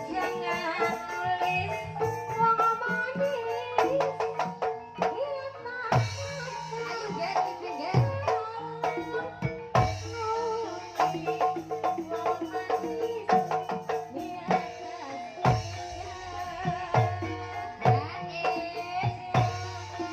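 Javanese gamelan music in Banyumas style: sustained metallophone tones with a wavering melody line over them, and deep hand-drum (kendang) strokes every couple of seconds.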